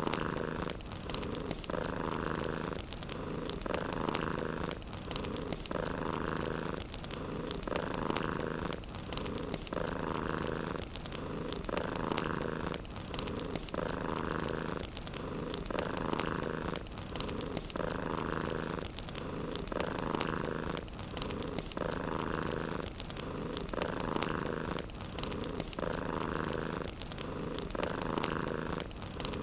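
Domestic cat purring steadily and close, the purr swelling in a regular cycle of about one breath every two seconds, with a fireplace crackling softly underneath.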